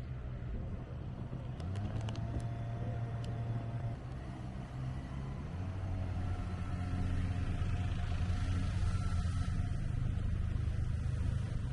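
Kawasaki Ninja ZX-25R's inline-four engine running on the move, with wind and road noise. Its pitch steps up about two seconds in and again about halfway through, and it grows slightly louder toward the end. A few light clicks come early on.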